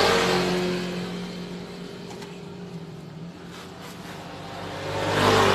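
Passing road vehicles: one going by at the start and another swelling up about five seconds in, over a steady low engine hum.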